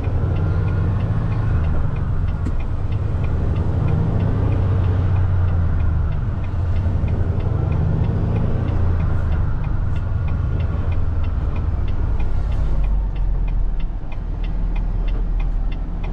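Semi truck's diesel engine running under the cab, its pitch slowly rising and falling as the truck pulls along and slows, with an even, rapid ticking of the turn signal throughout.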